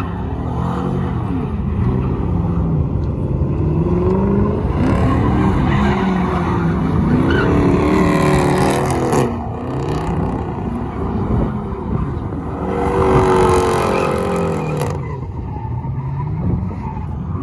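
A truck engine revved hard, its pitch climbing and falling over and over, with two stretches of loud hissing noise over it, the first about five seconds in and the second around thirteen seconds in.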